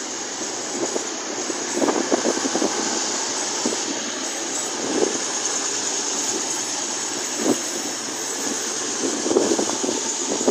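East Midlands Railway Class 222 Meridian diesel multiple unit running slowly past as it arrives at the platform: a steady running noise with a few clusters of knocks from the wheels and carriages.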